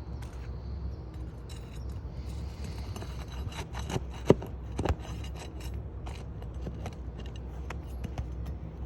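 Scattered light clicks, rattles and scrapes of small parts being handled, with two sharper knocks about four and five seconds in, over a steady low hum.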